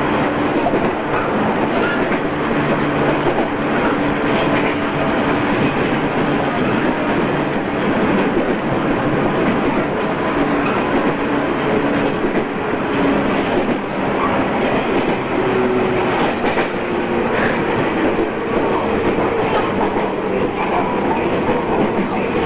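A JR East 113 series electric train running, heard on board as a steady rumble of wheels on rail with a few steady hum tones through it, recorded on cassette tape.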